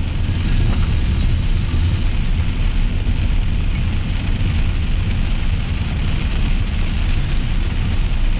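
Steady road and engine rumble heard inside a moving car, with the hiss of rain and wet tyres over it.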